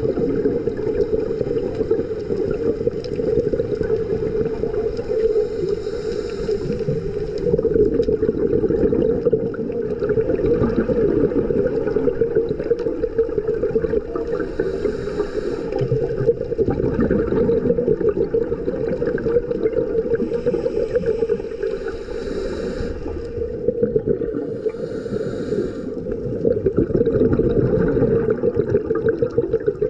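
Underwater sound through a camera housing: a steady muffled rumble, with bursts of scuba exhaust bubbles from a diver's regulator every few seconds.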